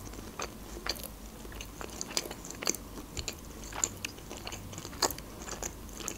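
Close-up chewing of a crisp fried lavash roll filled with cottage cheese, with irregular small crunches, about two a second.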